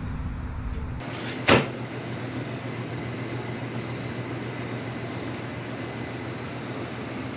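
A steady low hum with one sharp knock about one and a half seconds in.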